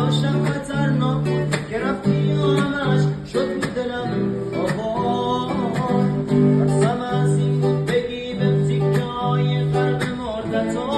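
Strummed acoustic guitar accompanying a singing voice, in a continuous song with a regular strumming rhythm.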